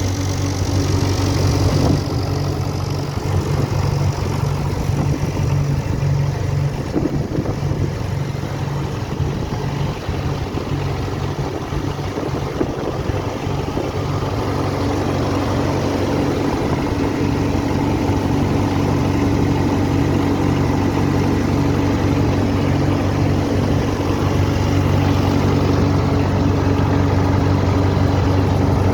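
A John Deere 303 vineyard tractor's Standard Motor Company diesel engine running at a steady idle. Its note is less even for several seconds in the first half, then settles again.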